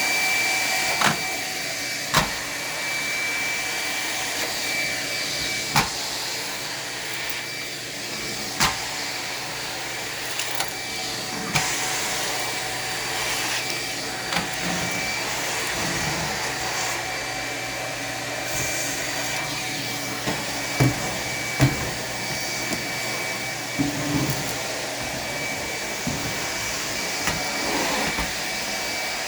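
Vacumaid central vacuum running steadily, air rushing through the hose with a high whine, and sharp knocks now and then as the tool is worked.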